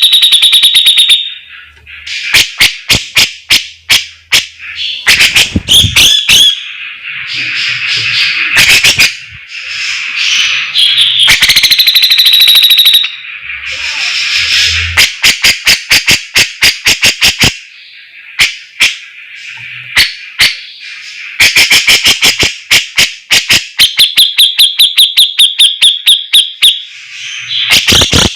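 Cucak jenggot (brown-cheeked bulbul) singing loudly in full besetan: long shrill trills alternating with rapid runs of sharp, clipped notes, phrase after phrase with short pauses between.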